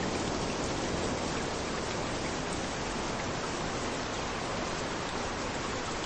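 Steady rain hissing down onto a beach, mixed with the wash of waves on the shore. A wave's lower wash dies away in the first second.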